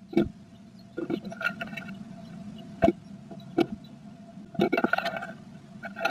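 Female blue tit building her nest inside a wooden nest box: irregular taps, knocks and scratches of feet and beak against the wood, with bursts of rustling nest material, over a steady faint hum.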